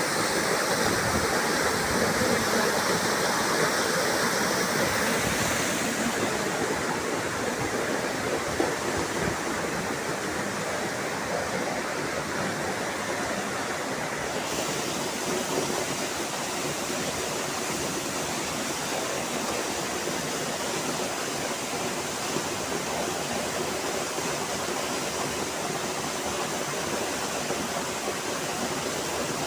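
Waterfall: water plunging onto rocks in a steady rush, a little quieter after about six seconds.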